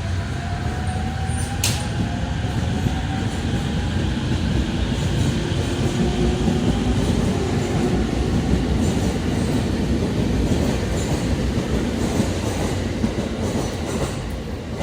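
Electric commuter train running along the tracks past the platform: a steady loud rumble of wheels on rail that swells toward the middle, with a faint rising motor whine near the start.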